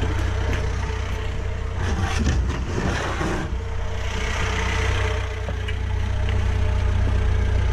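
Engine idling steadily, with louder stretches of noise about two and four seconds in.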